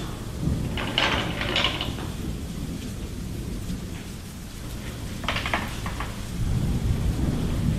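A steady low rumble, with short bursts of clicking or rattling about a second in and again about five seconds in.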